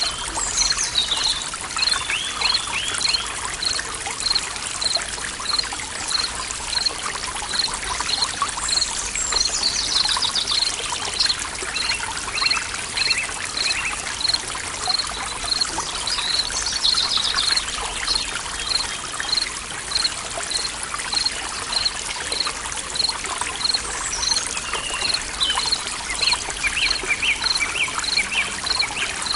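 A forest stream trickling steadily, with birds singing over it in several phrases, some as falling trills. A short high note repeats evenly, about every 0.6 s, throughout.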